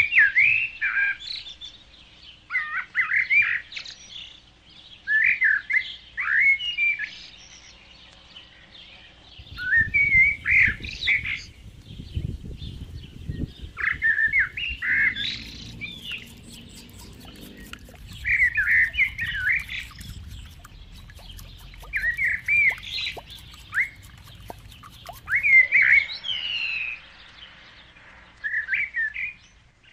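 A songbird singing the same short, chirping phrase over and over, one phrase every two to three seconds.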